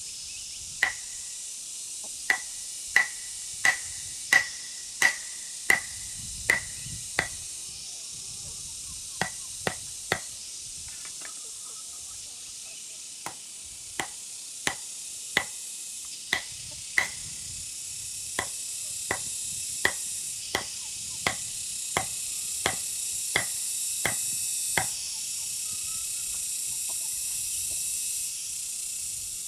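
A tool striking wood in a steady rhythm of sharp blows, about one every 0.7 seconds. The blows come in runs with a short pause about a third of the way in, and the early blows ring briefly. A steady high hiss lies underneath.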